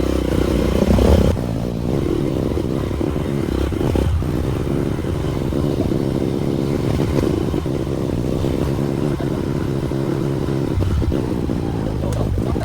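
Motorcycle engine running as it is ridden over a rough dirt trail, with clattering and scraping.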